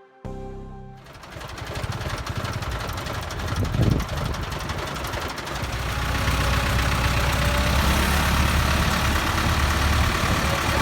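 Ford 6610 tractor's four-cylinder diesel engine running, with a brief louder burst about four seconds in and running louder and steadier from about six seconds. The last of an intro tune fades out in the first second.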